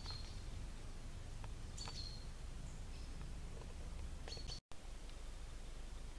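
A bird gives short high chirps, three of them about two seconds apart, over a steady low background rumble. The sound cuts out for an instant about three-quarters of the way through.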